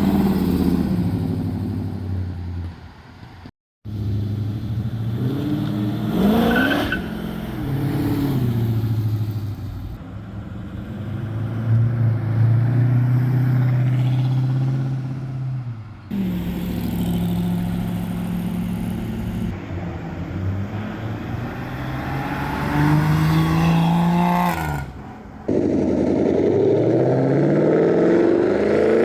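A succession of performance cars pulling away one after another, their engines revving and accelerating with the pitch climbing, and steady engine drones between. The sound breaks off abruptly several times as one car gives way to the next.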